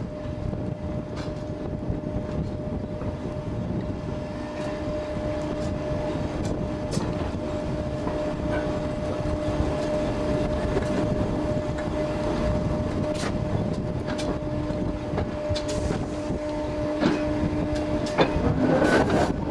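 4-CEP slam-door electric multiple unit running slowly, heard from an open window: a steady rumble of wheels on rail with scattered sharp clicks, and a steady hum that stops shortly before the end.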